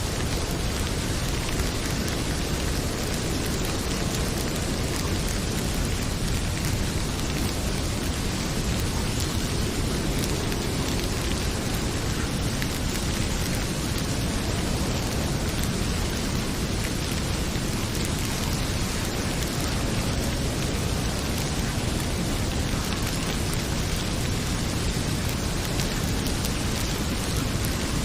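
Heavy rain pouring steadily, a dense, even hiss with a deep low rumble underneath, mixed with a crackling fireplace.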